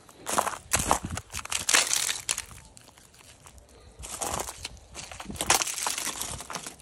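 Footsteps crunching in snow: a run of steps about two a second, a pause of a second or so, then more steps.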